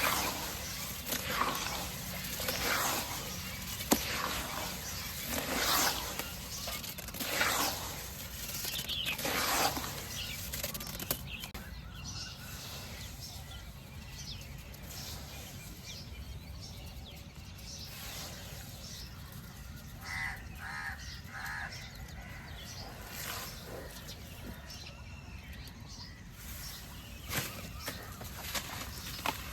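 White cement shapes crumbling and breaking apart in repeated crunchy bursts, about one every second or so, for the first ten seconds, then quieter, sparser crackling.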